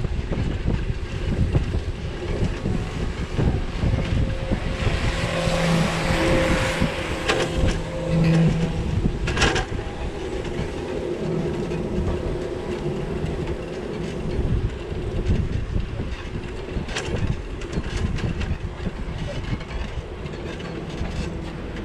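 Rumble and rattle of a bicycle riding over city streets, heard through a bike-mounted action camera. A rush of noise swells about five seconds in, and two sharp clicks come near ten and seventeen seconds in.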